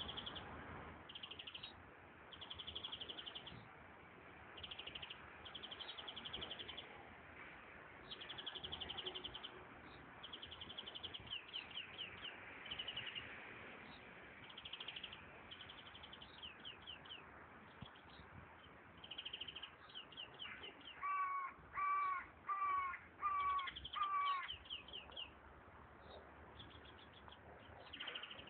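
European greenfinch singing: short, rapid, high trills repeated all through. Near three-quarters of the way in, a crow caws five times, loud and harsh, over the song.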